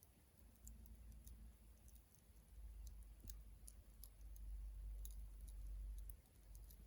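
Wood campfire crackling softly: sparse, irregular small pops and ticks. Under it, a low rumble swells about half a second in and fades near the end.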